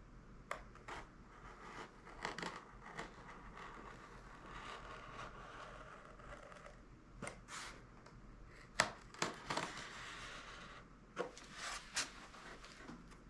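Scattered scraping, tearing and sharp clicking sounds from hand tool work on a balsa-and-foam RC airplane wing, in small clusters, over a faint steady hum.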